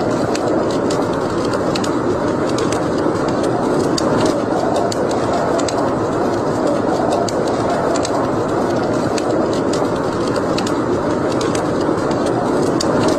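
Wood fire burning in a fireplace: irregular sharp crackles and pops over a steady rushing noise.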